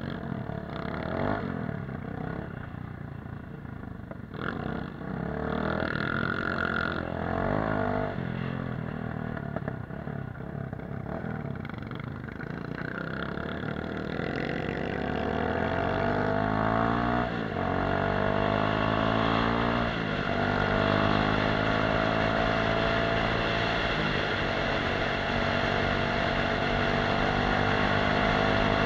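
Off-road motorcycle engine under way. It revs unevenly at first, then accelerates through the gears, its pitch climbing and dropping back at each of three shifts in the second half.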